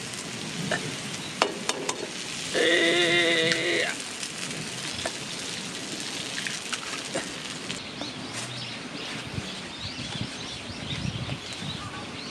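Food frying and sizzling in a pan, a steady hiss with small crackles. About three seconds in, a steady pitched tone sounds over it for about a second.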